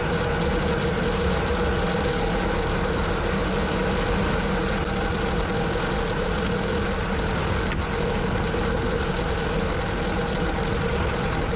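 Tractor running steadily while pulling a rotary cutter (bush hog), a constant mechanical hum over the engine's low rumble, with no change in pace.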